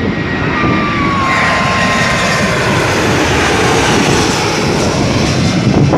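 Landing airliner passing low overhead on its approach, its engines a loud, steady roar with a whining tone that falls slightly in pitch.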